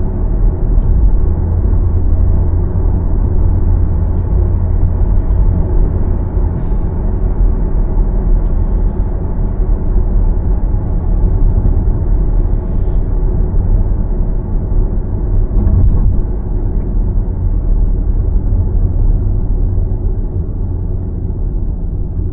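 Car driving along: a steady low rumble of road and tyre noise, strongest in the deep bass, with a few faint brief hisses about a third of the way in.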